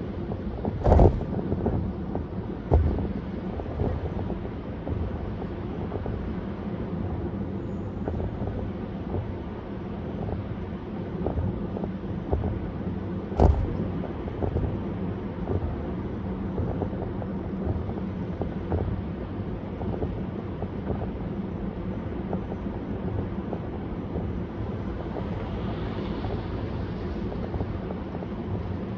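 Car driving on a highway: a steady low drone of road and engine noise, broken by sharp thumps about a second in and again about halfway through.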